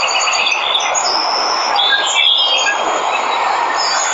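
Waterfall rushing steadily, with several birds chirping and calling over it in short high notes.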